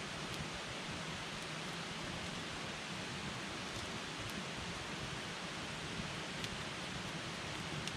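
Campfire burning with a steady hiss and a few faint, scattered crackles.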